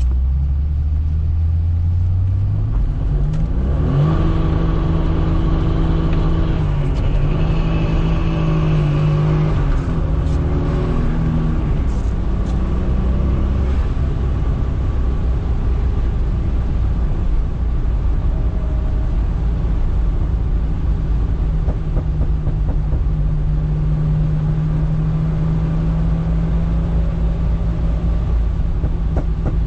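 Twin-turbo Toyota Supra's engine under way in a manual car: the revs climb about three seconds in, hold with a couple of brief drops until about twelve seconds, then settle into a steady cruise.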